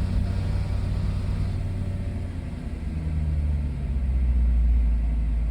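2014 Audi RS5's 4.2-litre V8 idling after a cold start, with its exhaust valves closed. About four seconds in, the idle drops and a deeper drone grows louder.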